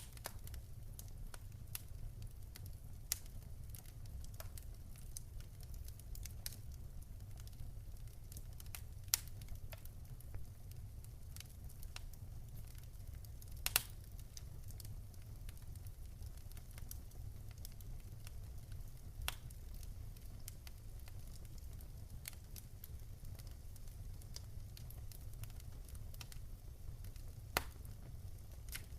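Wood fire crackling, with irregular sharp pops over a steady low rumble, and a few louder pops scattered through.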